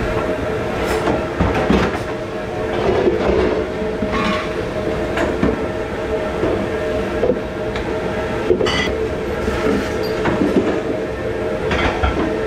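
Dish-room noise: a steady mechanical hum, like a commercial dishwasher or kitchen machinery running, with scattered clinks and knocks of dishes, cutlery and racks being handled.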